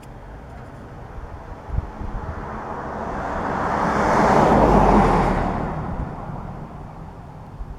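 A vehicle driving past: its road noise swells to a peak about four to five seconds in, then fades away.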